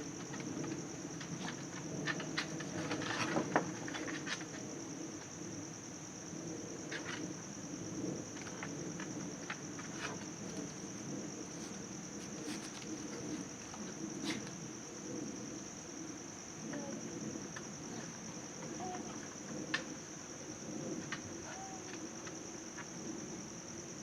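A steady, high-pitched insect trill, like crickets, running unbroken, with scattered light clicks and knocks over a low background murmur.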